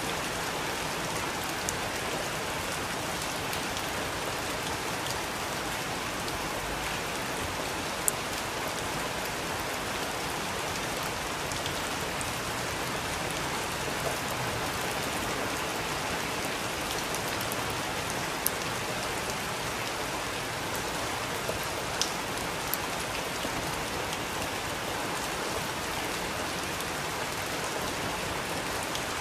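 Steady rain falling in an even hiss, with a few sharper single drops ticking out now and then.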